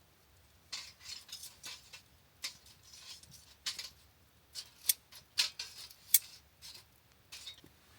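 Campfire crackling: many sharp, irregular snaps and pops of burning wood, with no steady rhythm.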